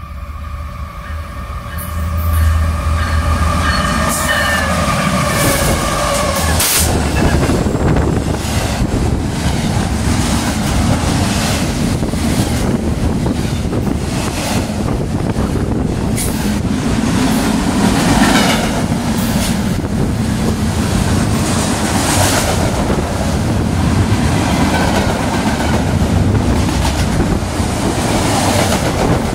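CSX freight train passing at speed, led by GE diesel locomotives. Its horn sounds a held multi-note chord that fades out about six seconds in. Then intermodal and container cars roll by with steady loud wheel noise and repeated clicking over the rail joints.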